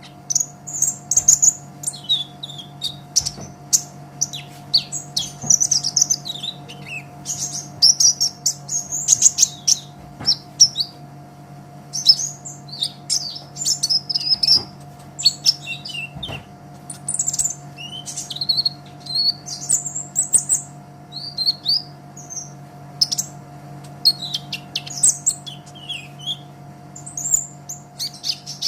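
Olive-backed sunbird (kolibri ninja) singing: rapid high-pitched chirps and short twittering trills in quick bursts, over a steady low hum.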